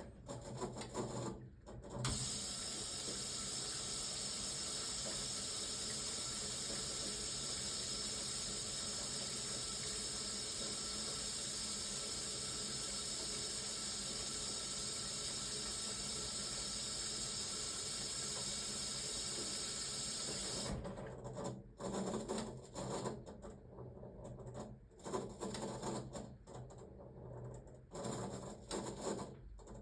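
1978 Siemens WA4600 washing machine taking in water at the start of a wash: a steady hiss of water rushing into the machine that starts about two seconds in and cuts off suddenly about twenty seconds in, followed by quieter, uneven sounds.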